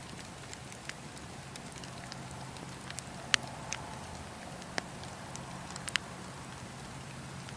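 Wood campfire burning with a steady low hiss and scattered sharp crackles and pops from the burning wood, the loudest pop about three seconds in.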